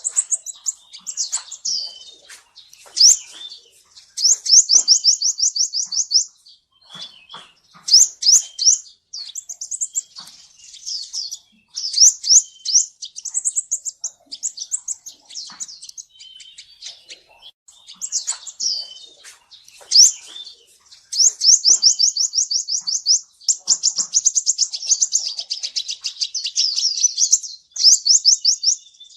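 Kolibri ninja, a sunbird, singing: high-pitched, fast trills of rapidly repeated notes in phrases of one to a few seconds, broken by short pauses.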